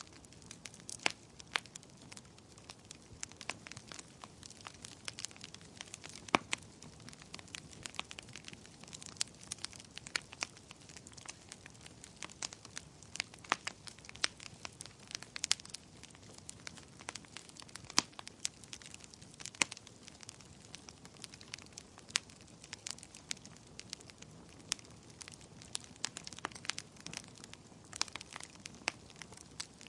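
Wood bonfire burning and crackling: a soft steady hiss with frequent sharp, irregular pops and snaps.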